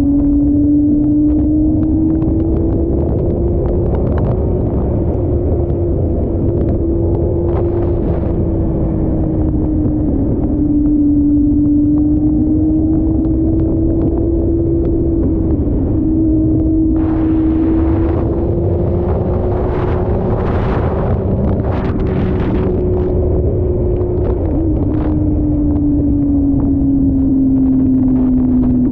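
Motorcycle engine running at a fairly steady speed, its pitch drifting gently up and down, over a constant low rumble. Several short bursts of hiss come in about two-thirds of the way through.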